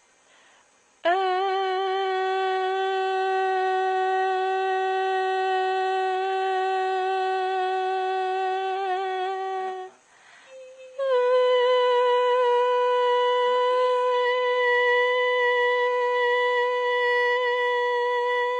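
A person's voice holding a long, steady note for about nine seconds. After a short break it holds a second, higher note for about eight seconds.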